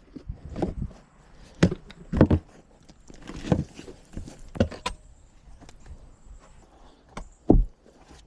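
Irregular thuds and knocks, about seven or eight over several seconds, with faint scraping between them; the loudest is a heavy thud near the end.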